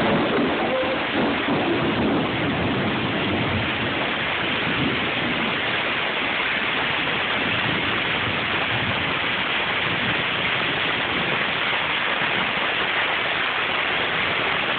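Rain pouring down with a steady hiss.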